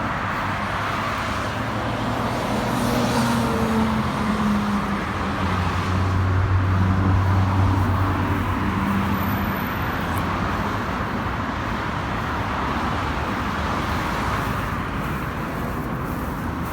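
Road traffic noise: a steady hum of motor vehicles, swelling a little through the middle and then easing off.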